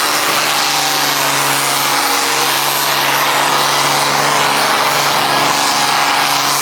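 Engine of a pulling tractor running loud at a steady pitch, with a dense rushing noise over it.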